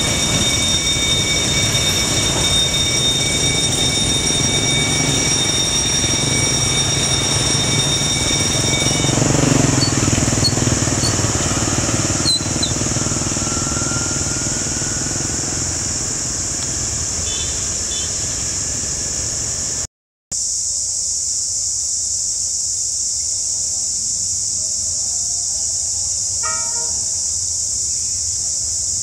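Diesel freight train behind a D12E locomotive rolling past, a low rumble with steady high wheel squeal for about the first nine seconds. After that the rumble fades and a steady high-pitched buzz carries on. Near the end a diesel locomotive's horn gives a short toot.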